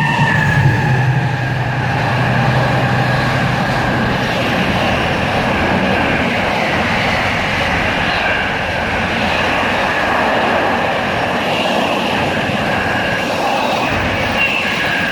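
Class 70 GE PowerHaul diesel locomotive passing through at speed, its engine loud for the first few seconds, then the steady rumble of the train running past.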